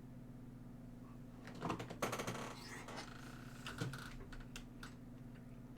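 Eating sounds: a mouthful of chicken tikka masala with rice being taken and chewed, heard as a run of quick small clicks and crackles lasting about three seconds.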